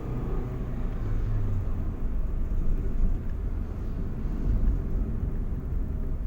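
A car on the road: steady low engine and road rumble.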